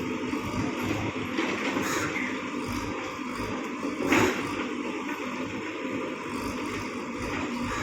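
JCB backhoe loader's diesel engine running steadily, with a louder clank about four seconds in.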